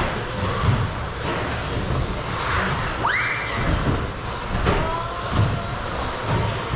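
Radio-controlled stadium trucks racing on a track: a steady mix of motor whine and tyre noise, with one truck's motor whine rising sharply as it accelerates about three seconds in.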